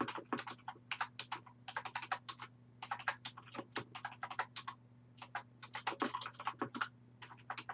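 Computer keyboard being typed on in irregular runs of quick clicks, with a short pause in the middle, over a faint steady low hum.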